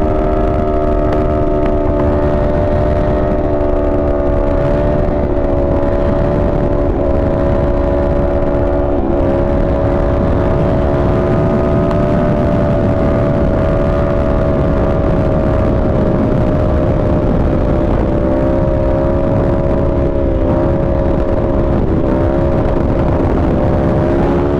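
Sport bike engine running at a steady cruising speed under heavy wind rush, its note holding nearly level and then rising near the end as the bike speeds up.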